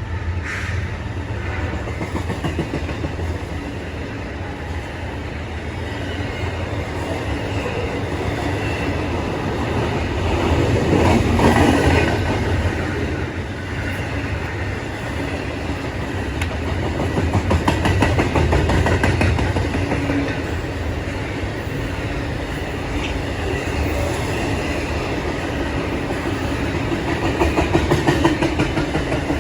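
A train rolling past, its wheels clacking over the rail joints in a steady run of rapid ticks, swelling louder three times.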